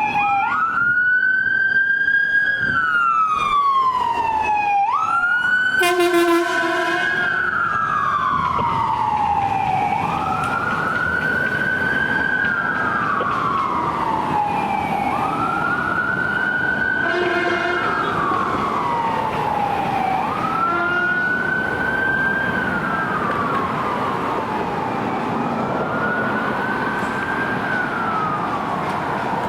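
Los Angeles Fire Department emergency vehicle's electronic siren in wail mode. Each cycle rises quickly, holds briefly, then slides slowly down, repeating about every five seconds. Short horn blasts cut in about six seconds in and twice more around the middle, and the siren grows slightly fainter toward the end.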